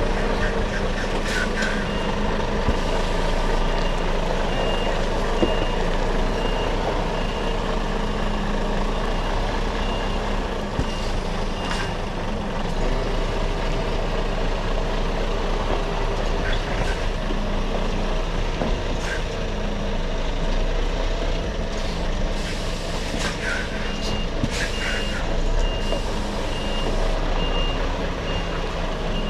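Articulated lorry reversing, its diesel engine running steadily while its reversing alarm beeps at an even pace, falling silent for a stretch in the middle before starting again. A few brief sharp noises sound over it.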